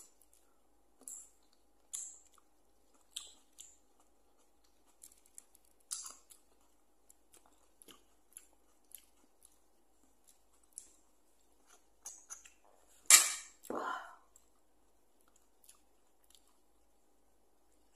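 A person chewing food close to the microphone: short, soft, wet mouth sounds every second or so, with one louder sharp sound about 13 seconds in, followed at once by a shorter, lower one.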